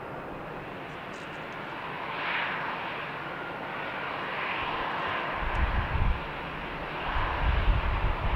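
Aircraft engine noise, a steady rushing that swells a couple of seconds in. Loud, irregular low rumbles join it from about five seconds in.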